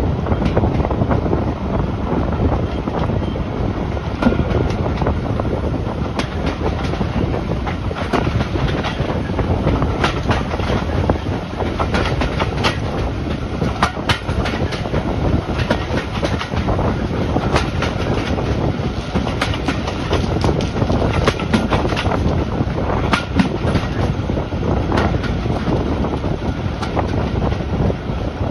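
A heritage passenger train running along the track, heard from a carriage: a steady rumble of wheels on rail, with repeated clicks as the wheels pass over rail joints.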